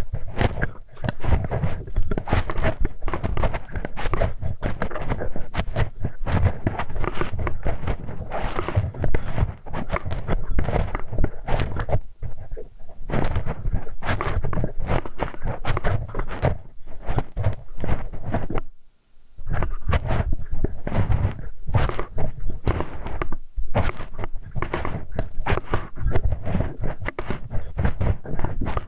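Metal hex key (Allen wrench) scraping, tapping and clicking against an ear microphone up close, a dense run of rubbing and small knocks. It stops briefly about nineteen seconds in, then carries on.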